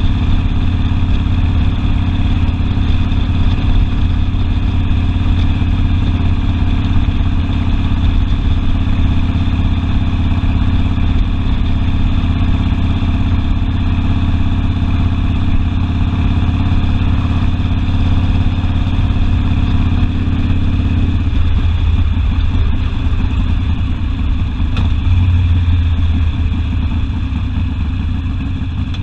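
Harley-Davidson Sportster V-twin engine running steadily under way on the ride. Its note changes about two-thirds of the way through, with the higher part of the sound falling away.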